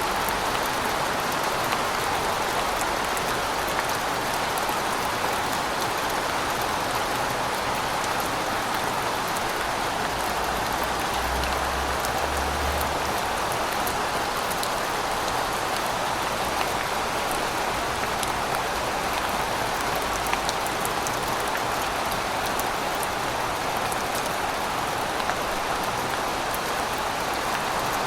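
Steady rain falling, a constant hiss of drops with small scattered patters, and a faint low rumble underneath for several seconds in the middle.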